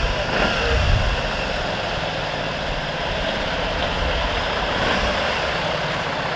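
Steady vehicle noise from a moving motorcycle: a low engine drone under wind rumble on the microphone, with street traffic mixed in.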